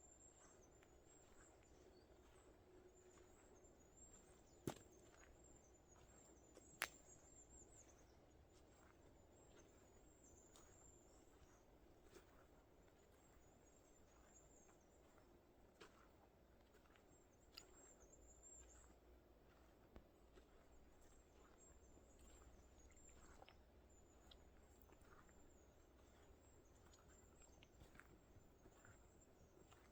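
Near silence of a snowy forest: faint, very high-pitched bird calls come and go, with two sharp clicks about five and seven seconds in.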